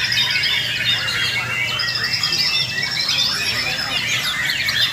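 Several white-rumped shamas (murai batu) singing at once in a contest-style chorus: a dense, unbroken tangle of overlapping whistles, fast trills and rattling phrases, over a faint low hum.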